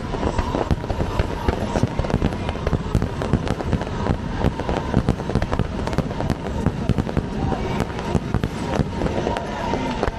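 Dense barrage of fireworks: sharp bangs and crackling in quick succession without a break.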